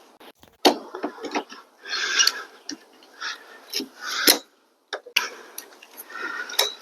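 Scattered knocks and clatter of wooden framing pieces being handled and set in place, with rustling between them and a sharp knock about four seconds in.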